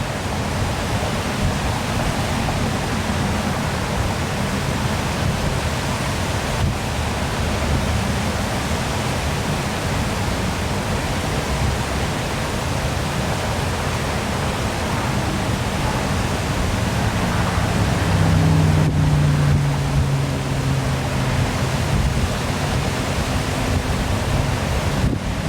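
Waterfall pouring with a steady, dense rush of water. A low hum swells over it for a few seconds about two-thirds of the way through.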